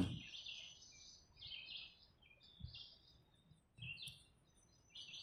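Faint bird chirps, short and scattered, some way off.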